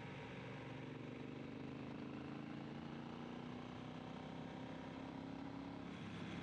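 Triumph T120's parallel-twin engine pulling under acceleration, its note rising slowly for about five seconds, then dropping away near the end as the throttle is rolled off or a gear is changed, over steady wind and road noise.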